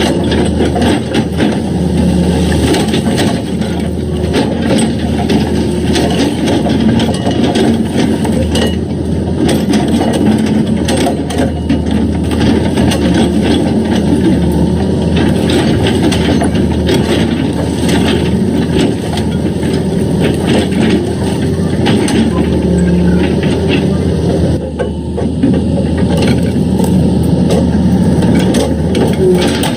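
Excavator's diesel engine running steadily, with frequent irregular clanks and knocks of the bucket working against rock.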